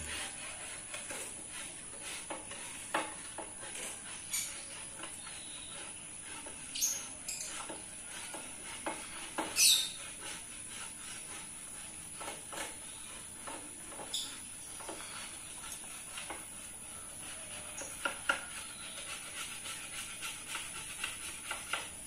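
Small caged birds hopping and pecking, with scattered clicks and taps and a few short high chirps. The loudest is a quick falling chirp about ten seconds in.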